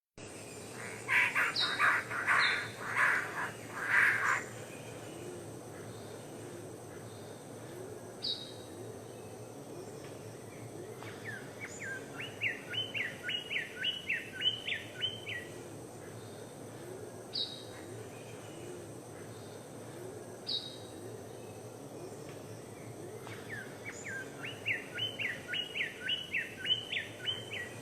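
Wild birds calling and singing: a run of loud, harsh calls in the first few seconds, single high notes here and there, and two quick series of rising notes, one around the middle and one near the end, over a steady background hiss.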